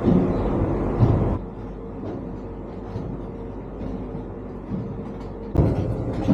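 Running noise of a Deutsche Bahn ICE train heard from inside the carriage: a steady rumble that drops suddenly to a quieter hum about a second and a half in and comes back louder near the end.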